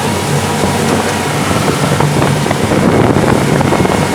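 Motorboat engine running steadily at speed while towing a banana boat, with wind noise on the microphone.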